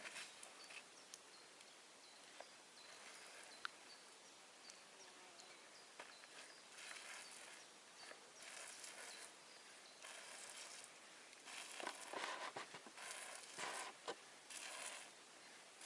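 Faint outdoor background with a few small ticks, then irregular bursts of quiet rustling or scuffing in the second half.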